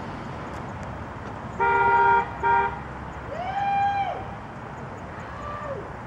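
Car horn honking twice, a longer beep then a short one, over a steady outdoor background hum. It is followed by two fainter calls that rise and then fall in pitch.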